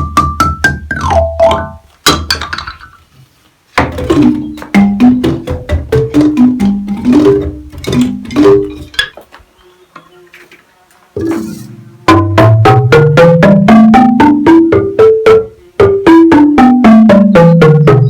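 An outdoor xylophone-like instrument with tuned bars, struck in quick runs up and down the scale with a short pause between runs.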